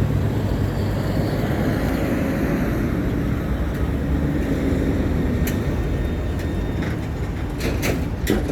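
Steady road traffic: vehicles passing with a low engine rumble that is heaviest at the start. A few sharp clicks come near the end.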